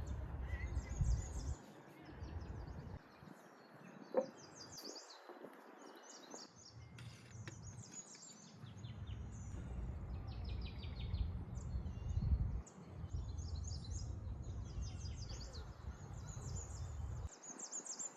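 Small birds chirping and trilling in quick runs of short high notes throughout, over a low rumble that swells and drops away several times.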